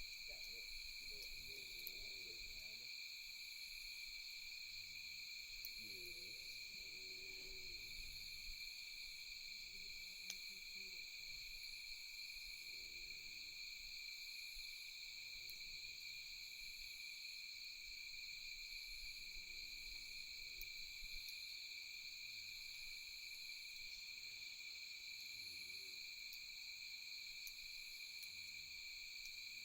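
A steady chorus of night insects trilling, several calls layered at different pitches, with one pulsing about every second or two. Faint low calls come and go every few seconds underneath, with an occasional faint sharp tick.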